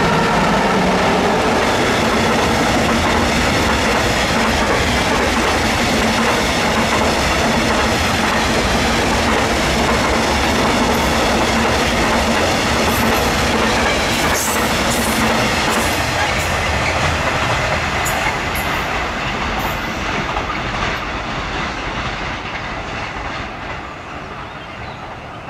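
A long freight train of tank wagons, hauled by a Siemens Vectron electric locomotive, passes close by. At the start the locomotive gives off steady humming tones. Then the wagons' wheels rumble and clatter over the rail joints, with a few sharp high clicks and squeals about halfway through. The rolling noise fades away over the last several seconds as the end of the train draws off.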